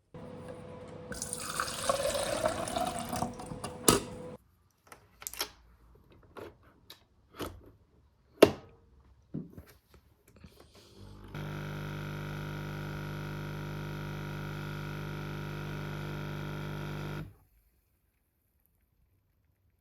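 Household sounds: first a few seconds of running water, then a series of separate clinks and knocks, then a steady electric appliance hum for about six seconds that cuts off suddenly.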